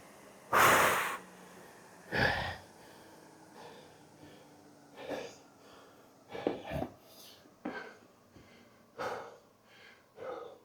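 A person breathing hard: a string of heavy exhales about a second or so apart, the first the loudest, from being winded at the end of a round of a high-intensity conditioning workout.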